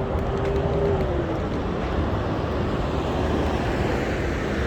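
Street traffic: a steady rush of passing vehicles, with one engine's hum dropping in pitch about a second in as it goes by.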